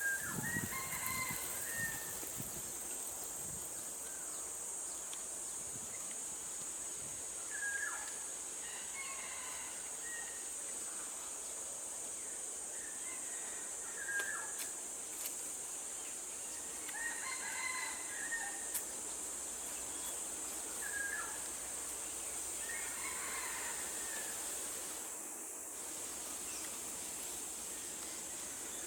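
Steady high-pitched insect drone, with short bird calls breaking in every few seconds.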